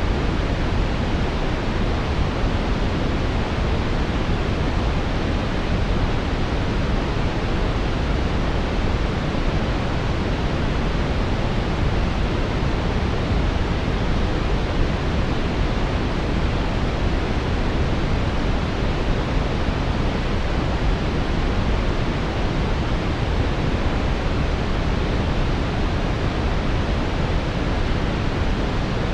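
Steady brown noise, an even rumbling hiss strongest in the deep lows and fading toward the highs, unchanging throughout.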